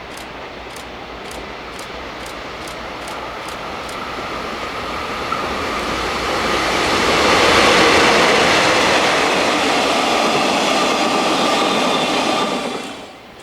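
A freight train approaching and passing at speed: its wheel-on-rail noise grows louder over about seven seconds, stays loud with a steady high whine, then cuts off suddenly near the end.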